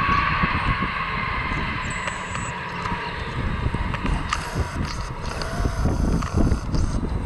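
Airliner's jet engines running with a steady whine that fades over the first few seconds, under a rough rumble of wind buffeting the microphone that grows toward the end.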